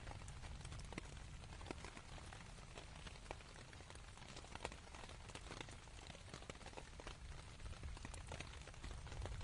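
Rain falling on canvas: many separate drop hits over an even hiss, with a steady low rumble underneath, faint overall.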